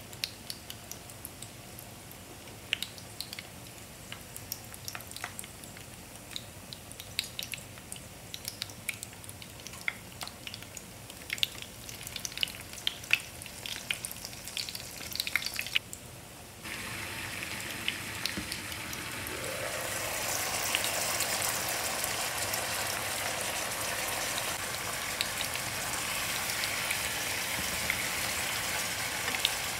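Scattered crisp crackles for the first half, then, after an abrupt change a little past halfway, a steady sizzle and bubbling of kababs cooking in tomato gravy in a pan, growing louder.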